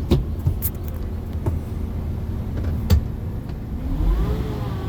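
A motor vehicle's engine running with a low rumble and a few sharp clicks. Near the end it picks up with a rising tone as the vehicle accelerates.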